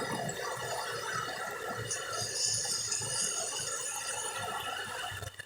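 Sea waves washing onto a sandy beach: a steady hiss of surf.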